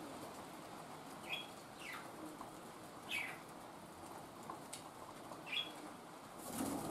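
Steady hiss of rain with a few short, high chirps from small birds sliding downward in pitch.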